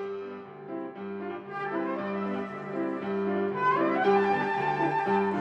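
Flute and piano duet in a slow, calm arrangement. The piano plays repeated chords, and the flute comes in over them about a second and a half in with held melody notes.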